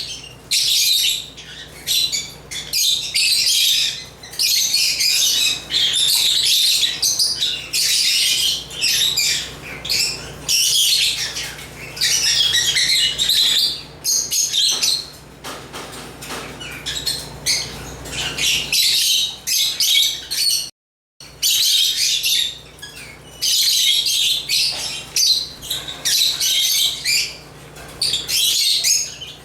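African lovebirds (Agapornis) chirping and chattering in rapid, high-pitched runs with short pauses, broken by a brief moment of total silence about two-thirds of the way through.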